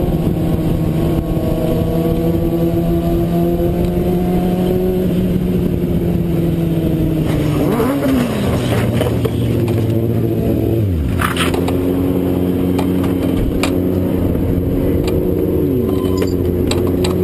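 Racing motorcycle engines running at high revs, with several passing by and dropping sharply in pitch, about eight, eleven and sixteen seconds in.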